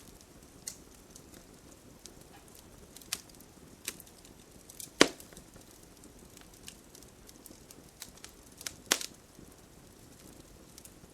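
Campfire crackling: irregular sharp pops over a soft, steady hiss of burning, with the loudest pop about five seconds in and another strong one near nine seconds.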